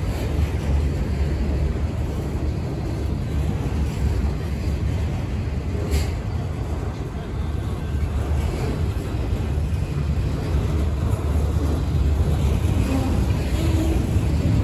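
Freight train rolling past with a steady low rumble, and one sharp click about six seconds in.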